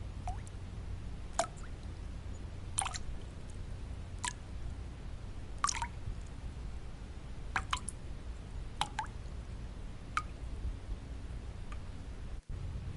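Water drops falling one at a time, each a short plink that slides down in pitch, about ten drops at irregular intervals of roughly a second or so, over a steady bed of white noise. The sound cuts out for an instant near the end.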